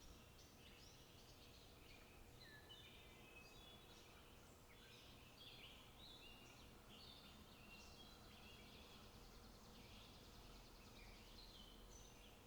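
Faint birdsong: many small birds singing short chirps and quick trills without pause, over a quiet background hiss.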